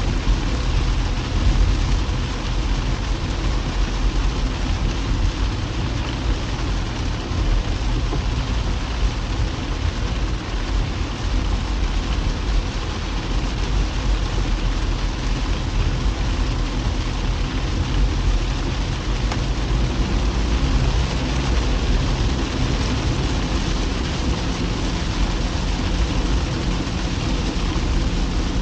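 A car driving in the rain: steady engine and road noise with the hiss of rain.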